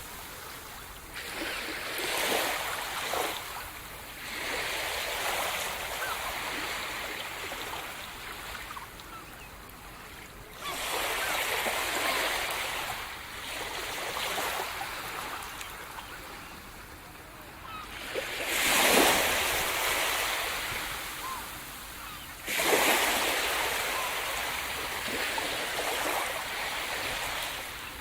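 Sea surf: waves rush in and wash back in repeated swells, with waves breaking strongly about ten seconds in, again near two-thirds of the way, and hardest a few seconds later.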